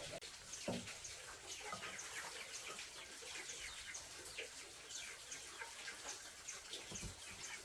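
Birds chirping: many short, high chirps repeated throughout, over a faint steady background.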